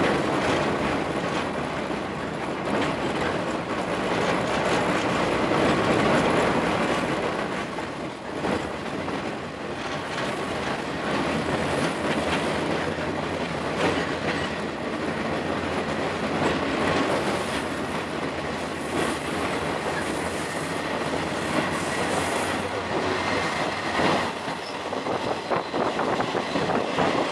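Train running along the track, heard from an open-air trolley car: steady wheel and rail noise with clickety-clack over rail joints, and bouts of high-pitched wheel squeal coming and going.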